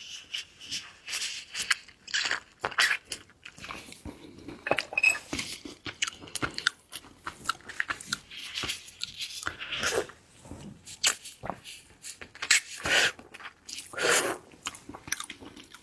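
Close-miked chewing and crunching of seafood, with irregular wet crackles and clicks. There are louder crunches near the end.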